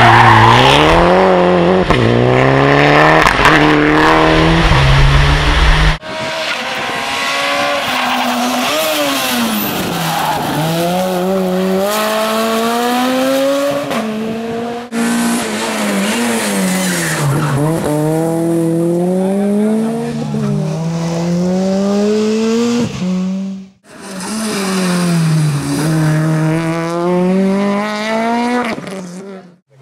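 Rally cars at full speed on a tarmac special stage, engines revving hard and dropping in pitch again and again as they shift gears and brake for corners. The sound changes abruptly about 6, 15 and 24 seconds in, as each car hands over to the next.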